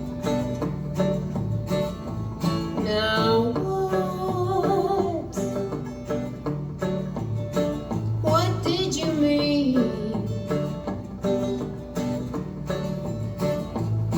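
A song performed live on strummed acoustic guitar with a singing voice; two sung lines come in, about three and eight seconds in, over steady strumming.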